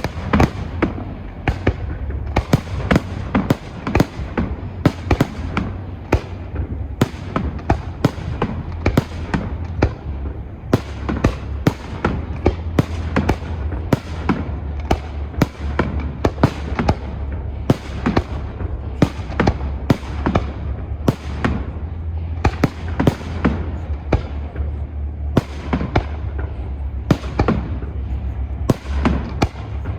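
Fireworks display going off continuously: a rapid, unbroken string of bangs and crackles, several a second, over a steady low rumble.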